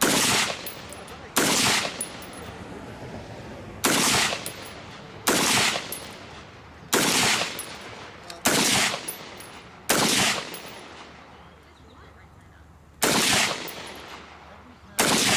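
Gunshots fired one at a time at a steady pace, about nine of them, roughly one every second and a half, each a sharp crack with a short ring-out, with one longer pause of about three seconds after the seventh.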